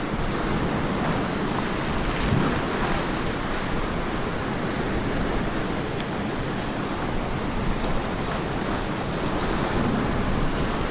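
Ocean surf washing steadily onto the beach, a dense even rush with small swells about two seconds in and near the end, and some wind on the microphone.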